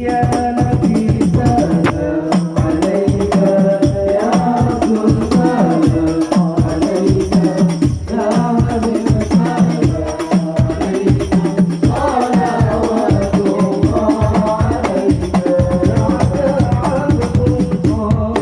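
Devotional sholawat singing: a melodic voice chanting salawat over a quick, steady beat of hand-played frame drums with jingles.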